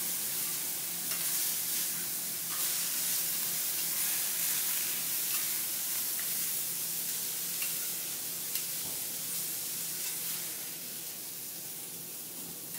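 Bean sprouts sizzling on a hot steel teppanyaki griddle as they are turned with metal spatulas, with a few light spatula taps over the steady hiss. The sizzle eases a little toward the end.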